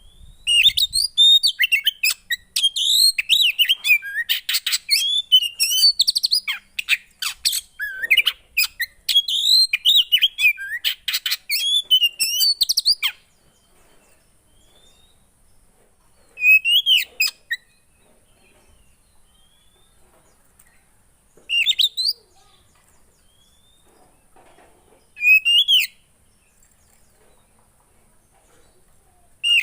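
A songbird singing: a fast, varied run of whistles, trills and chirps for about twelve seconds, then single short phrases every few seconds.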